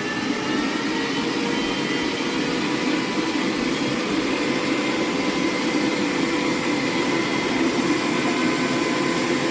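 Electric meat grinder running steadily with a constant motor whine while it grinds chilled pork shoulder.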